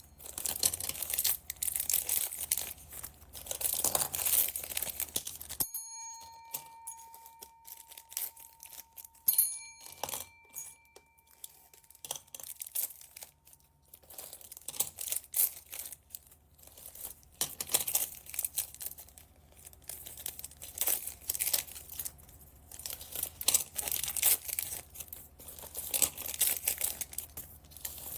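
Plastic bags crinkling and being torn open while bagged beads and charms are unpacked. About six seconds in the crinkling stops abruptly; two clear ringing tones sound in the quieter stretch, and then the rustling and tearing resume.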